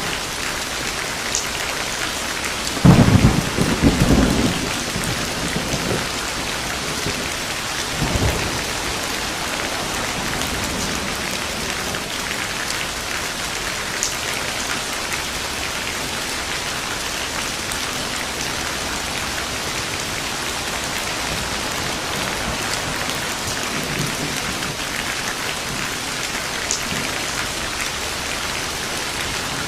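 Steady heavy rain falling, with a thunderclap about three seconds in that rumbles for a couple of seconds, and a smaller one a few seconds later.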